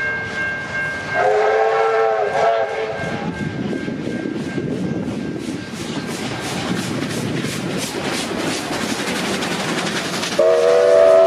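Narrow-gauge train sounding a multi-tone horn briefly, then its wheels clicking rhythmically over the rail joints as it runs past. A second, longer horn blast starts near the end.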